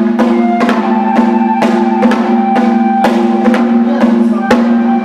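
Japanese kagura accompaniment music: sharp percussion strikes about two a second over sustained held pitched notes.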